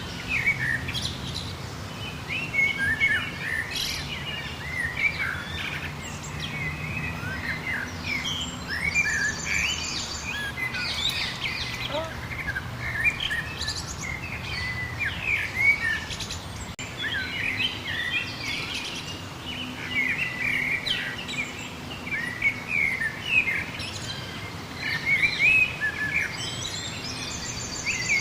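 Several songbirds chirping and singing at once, a dense chorus of short rising and falling calls, with a fast high trill now and then. A faint steady low background noise lies underneath.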